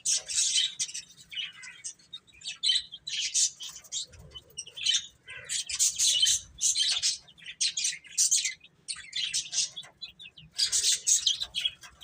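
Baby chicks chirping: many short, high-pitched peeps overlapping in quick clusters, with brief lulls between them.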